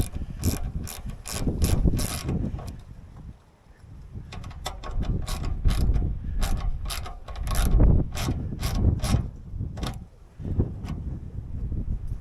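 Ratcheting clicks in quick runs, about two or three a second, pausing briefly twice, over low knocking and handling noise.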